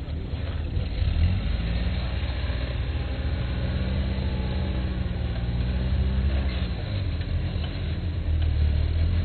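Off-road vehicle's engine revving under load on a hill climb, rising in pitch about a second in, holding, dipping briefly near seven seconds, then picking up again near the end.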